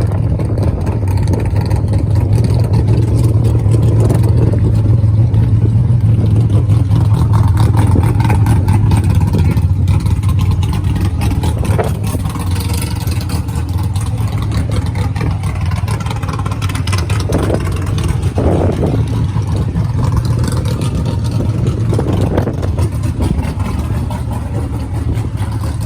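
A vehicle engine running steadily nearby, a constant low hum with no change in speed.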